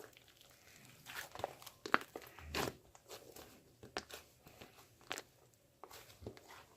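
Irregular close-up crunches and clicks, a dozen or so sharp ones spread unevenly, the loudest cluster about two to three seconds in.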